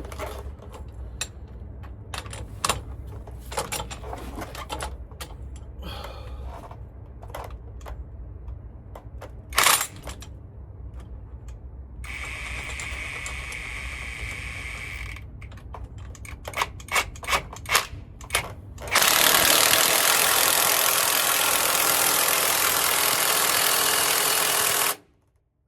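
Metal tools and parts clinking and knocking, then a short mechanical whir. After more sharp knocks comes a loud, steady power-tool run of about six seconds that stops suddenly.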